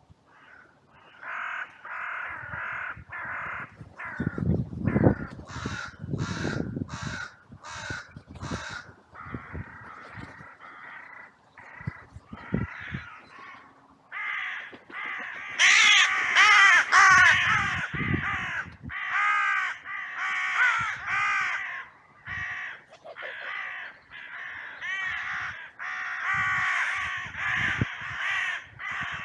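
A flock of crows cawing harshly over and over, many birds overlapping, swelling into a loud mass outcry about halfway through. This is a crowd alarm reaction set off by two crows fighting. Low thuds are mixed in early on.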